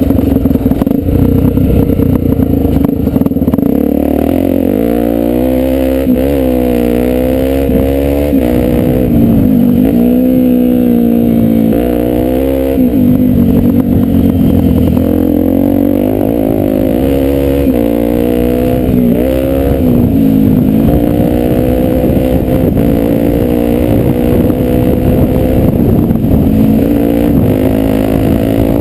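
Honda Tornado 250 single-cylinder four-stroke dirt bike engine under way off-road, its pitch rising and falling with throttle and gear changes several times, then holding steadier in the last third. Short knocks and rattles run through it.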